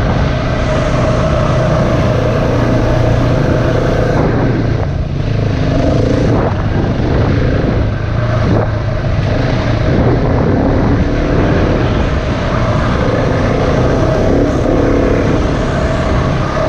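Single-cylinder dirt bike engine running under way, its note rising and falling as the throttle is opened and closed, with a few knocks around the middle.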